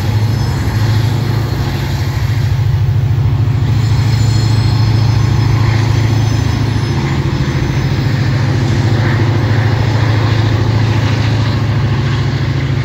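Freight sand train of covered hopper cars rolling past, with a steady low rumble of wheels on rail.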